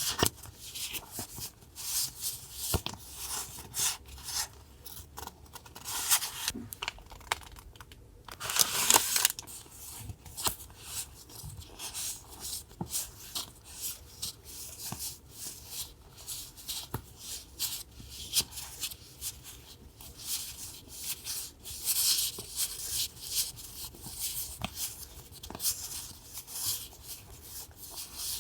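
Paper being handled at close range: rustling, rubbing and tearing in short, irregular strokes, with a longer swish about nine seconds in.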